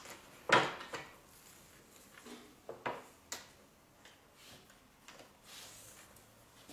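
Handling noises as an adhesive edge strip is stuck along a track-saw guide rail: a sharp knock about half a second in, lighter knocks and clicks around three seconds, then soft rubbing.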